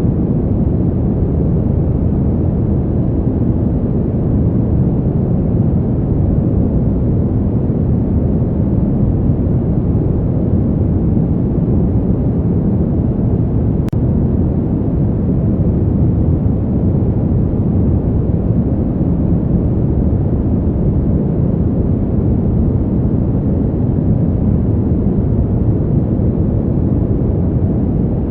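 Steady, low winter wind noise, an even deep hiss with no gusts or swells.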